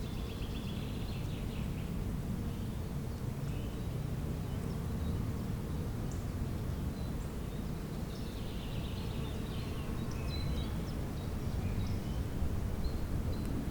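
Songbirds singing in short high trilling phrases, near the start and again past the middle, over a steady low rumble.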